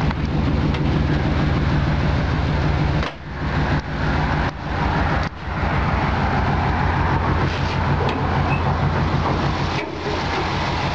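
1965 Chevy C20's 350 small-block V8 idling steadily, the sound dipping briefly a few times between about three and five seconds in. It is running well: "purring like a sleeping kitten".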